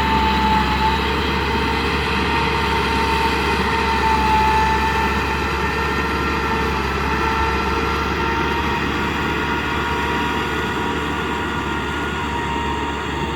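Kubota M6040 tractor's diesel engine running steadily, with a steady high whine over the engine note.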